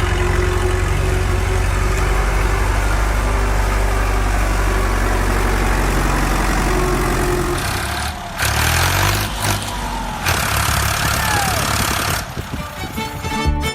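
An engine idling steadily with a low, even hum. From about eight seconds in it turns noisier, with shifting pitches, for a few seconds before settling down.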